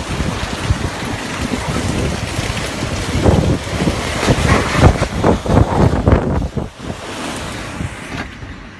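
Wind blowing hard across the microphone in irregular, rumbling gusts that fade away near the end.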